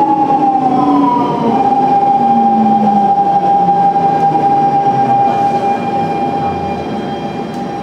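Siemens C651 train's GTO-VVVF traction inverter and motors whining as the train slows: a steady high whine over several lower tones that slide down in pitch, easing off a little near the end.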